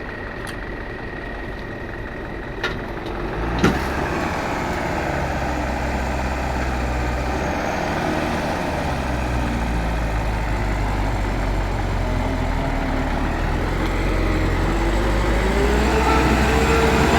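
Mitsubishi Canter dump truck's diesel engine running, picking up strongly after two sharp clicks a few seconds in, its note rising slowly and growing louder toward the end as the truck works under power.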